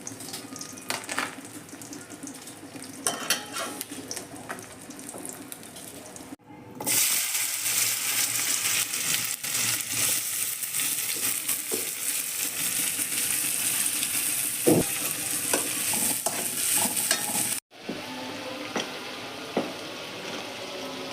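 Food frying in hot oil in a pan, sizzling, with a spatula stirring and scraping against the pan. The sizzle jumps much louder about seven seconds in and drops back suddenly about eleven seconds later.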